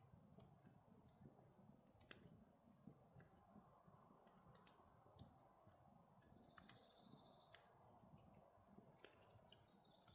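Faint campfire crackling: sparse, irregular small pops and clicks over a low hush, with a brief high hiss about six seconds in.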